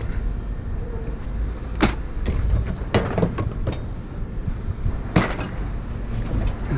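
A few sharp knocks and clanks over a steady low rumble, typical of scrap pieces being handled and set down.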